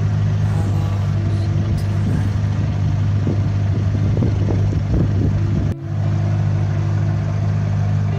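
Boat engine running steadily under way, a low even drone, with a momentary dropout a little before the end.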